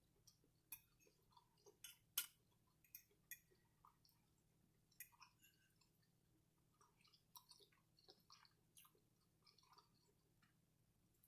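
Faint chewing and wet mouth sounds: soft irregular clicks and smacks of someone eating a meal.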